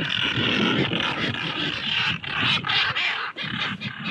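A large flock of seabirds calling all at once, a dense, continuous chatter of many overlapping cries.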